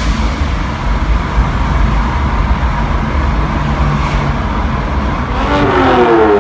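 Turbocharged BMW N54 inline-six car engine running loud and hard under load. About five and a half seconds in, the engine note falls steadily in pitch as the car lets off or goes past.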